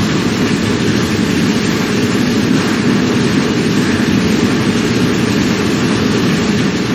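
Simulated earthquake sound effect: a loud, steady, low rumbling noise that does not let up.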